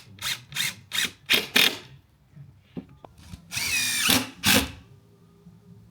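A handheld power tool run in short bursts, about three a second, then held for about half a second with a whine that dips and rises again, followed by one more short burst.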